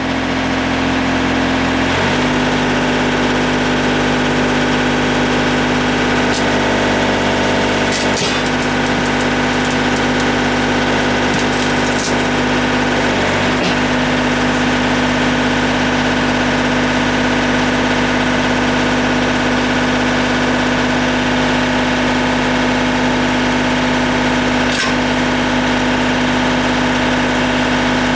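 John Deere 2720 compact tractor's diesel engine running steadily. About two seconds in, its engine speed steps up, then holds, with a few faint clicks over it.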